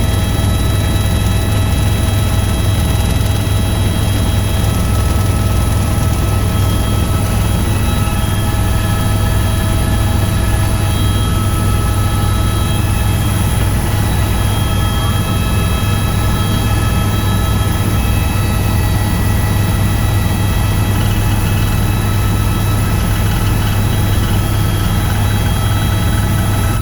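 Tour helicopter in flight: a loud, steady rotor and engine drone with a strong low hum and several steady higher whining tones over it.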